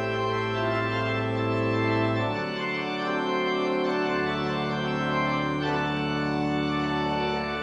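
Church organ playing slow sustained chords with a deep pedal bass, changing chord about every one and a half to two seconds.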